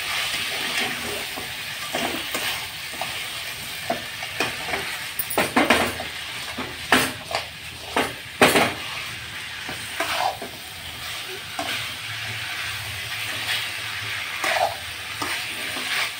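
Chicken pieces sizzling as they fry dry in a metal kadai, stirred with a metal slotted spoon that scrapes and clanks against the pan. The clanks come in a quick run between about five and nine seconds in, the loudest near the end of it. The meat is cooked through and is being fried down into chicken varuval.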